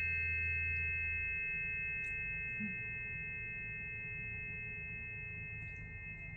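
Several planetary tuning forks ringing together as one sustained chord of pure tones, slowly fading. A low hum underneath stops about a second in.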